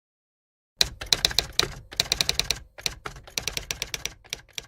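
Typewriter keys clattering in rapid, irregular runs of keystrokes, starting about a second in with a few short pauses between runs.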